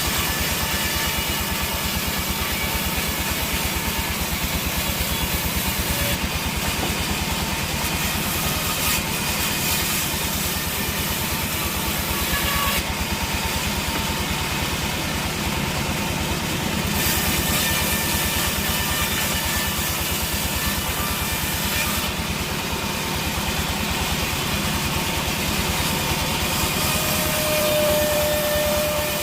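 A sawmill engine running steadily with a fast, even low pulse and machinery noise over it; a short steady whine comes in near the end.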